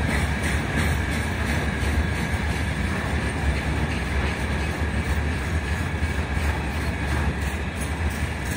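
Long freight train of open gondola wagons rolling slowly past: a steady noise of wheels running on the rails.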